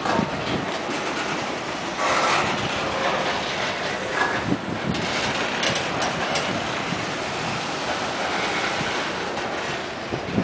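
Freight train cars rolling past close by: steel wheels running on the rails in a steady rolling noise, with occasional clacks as wheels cross rail joints and a louder stretch about two seconds in.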